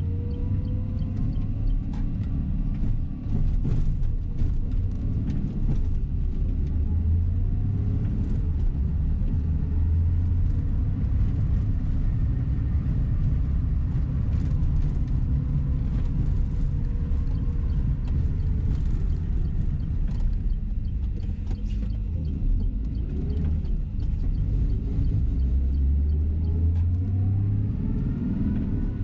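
Tour coach underway, heard from inside the cabin: a steady low engine and road rumble, with a faint whine that glides up and down in pitch as the bus speeds up and slows, rising again near the end.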